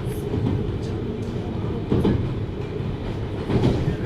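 Running noise of a 733 series electric train heard from inside the car: a steady rumble of wheels on rail, with a couple of short knocks about halfway through and near the end.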